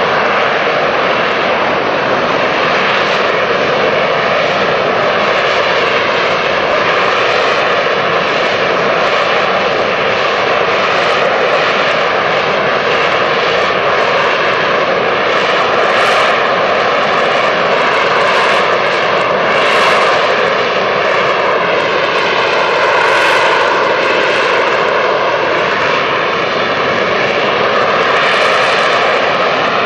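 AV-8B Harrier II's Rolls-Royce Pegasus turbofan running loud and steady: a dense jet rush with a steady whine in it, the hiss swelling briefly a few times.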